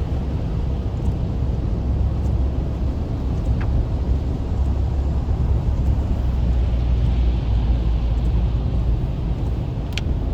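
Steady low rumble of a car's engine and tyres heard from inside the cabin while driving on a rain-wet highway, with a hiss that swells and fades about seven seconds in.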